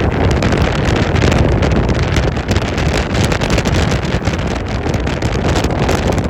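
Strong wind blowing across the microphone: a loud, steady rushing noise with rapid crackling buffets.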